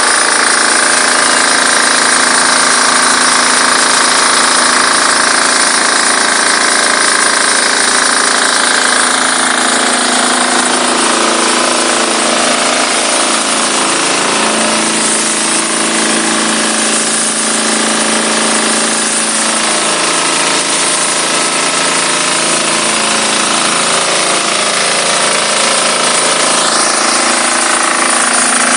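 Diesel-engine-driven high-pressure washer running steadily: the engine and pump run under the dense hiss of the spray jet.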